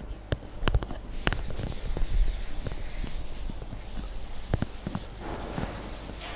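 Scattered sharp clicks with soft rubbing or scratching noise between them.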